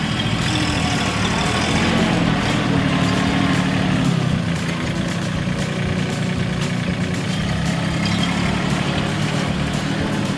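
Mahindra 1626 compact tractor's 26 HP diesel engine running steadily, its pitch shifting slightly in the first few seconds.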